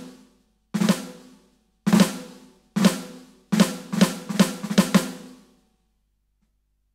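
Roland TD-17KVX electronic drum kit sounding one snare-like drum voice with a pitched ring. Single strokes come about a second apart, then a quick run of about seven strokes, stopping about five and a half seconds in.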